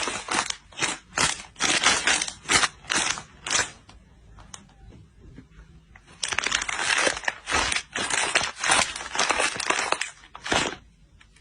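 Repeated crisp crunching, a few crunches a second in two runs, with a quieter pause of about two seconds in the middle.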